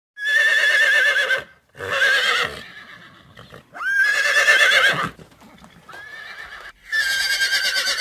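Horse whinnying: about five shrill neighs with a quavering pitch, one after another with short gaps, the fourth fainter than the rest.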